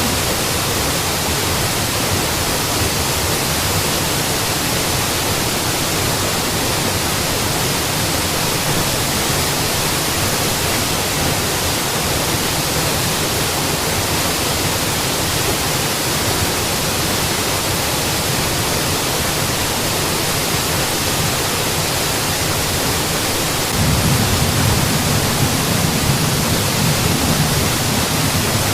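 Mountain waterfall: a steady, full rush of falling water, its low rumble growing a little louder about 24 seconds in.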